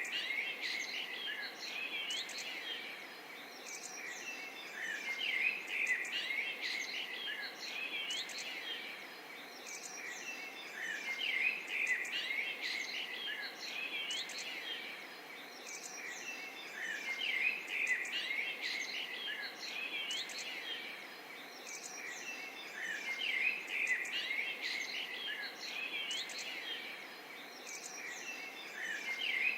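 Many small birds chirping and twittering over a steady outdoor hiss. The same pattern of louder bursts comes back about every six seconds, like a looped recording.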